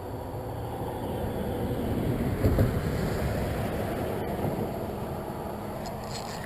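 Steady outdoor noise on a river: wind on the microphone and moving water, swelling briefly about two and a half seconds in.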